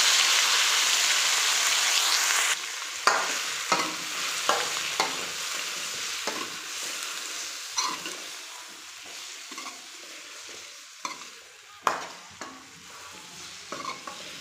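Freshly added chopped green tomatoes sizzling in hot oil in a metal kadhai: loud at first, dropping off sharply after about two and a half seconds, then a fading sizzle. A steel ladle scrapes and knocks against the pan as the tomatoes are stirred.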